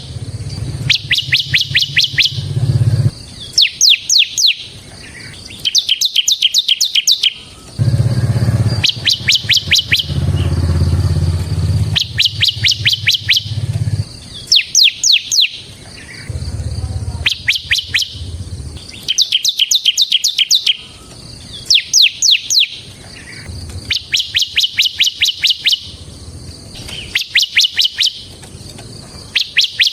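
Bar-winged prinia (ciblek) singing its rapid rattling trill. Each burst of quick high notes lasts about a second and repeats roughly every two seconds.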